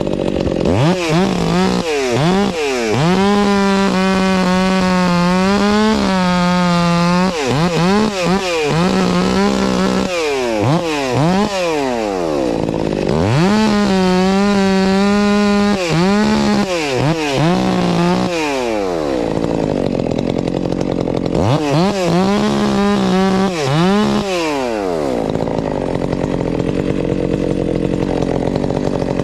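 Two-stroke chainsaw revved up and held at full throttle three times, each run of several seconds, with quick throttle blips rising and falling around each run. Between runs it drops back to a low idle, and it idles steadily near the end.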